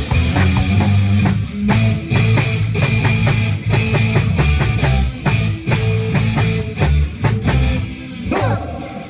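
Live rock band playing, with electric guitar, bass and a drum kit keeping a steady beat. The music winds down near the end as the song finishes.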